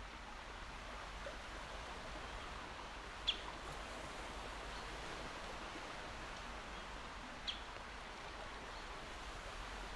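Calm sea giving a steady, even wash of water noise. Two short, high bird chirps sound over it, about three seconds in and again about seven and a half seconds in.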